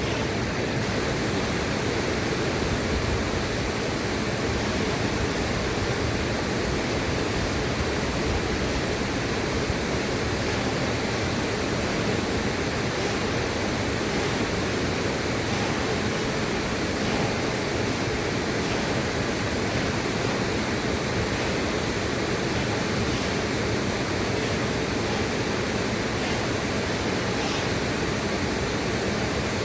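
Steady rushing of river water: an even, unbroken hiss across low and high pitches, with no changes or separate splashes.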